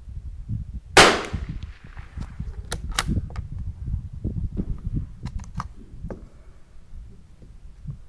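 A single .22 LR rimfire shot from a Tikka T1x bolt-action rifle about a second in, with a short echo after it, followed by a run of sharp, quieter clicks over a steady low rumble.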